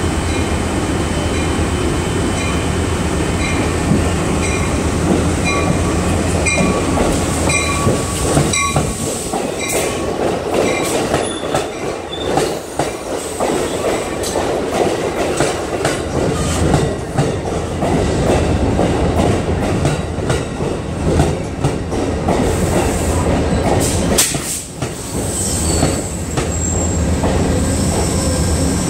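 Amtrak Pacific Surfliner train pulling into the station: a low steady engine drone at first, then the cars rolling past with wheel rumble and clicking over rail joints. A regular ringing about twice a second runs through the first part, and high wheel squeal comes near the end as it slows.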